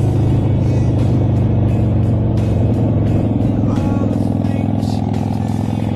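Harley-Davidson XL883R Sportster's air-cooled V-twin engine running loud and steady through its exhaust.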